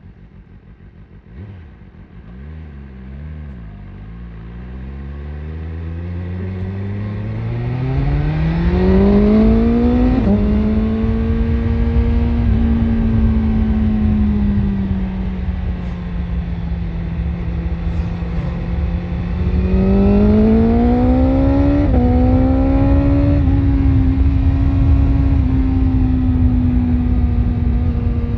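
BMW S1000RR's inline-four engine through an Akrapovic exhaust, pulling away from low revs and accelerating hard, the note rising and then dropping at upshifts about ten and twelve seconds in. It then cruises at a steady pitch and accelerates again around twenty seconds in, with two more quick upshifts. Wind rushes underneath as speed builds.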